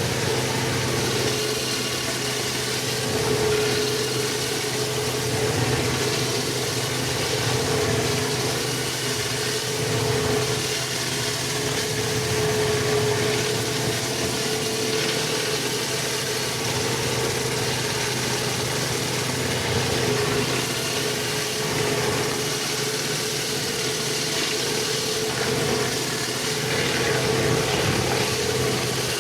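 Pressure washing rig's engine running steadily, with a steady hiss over it.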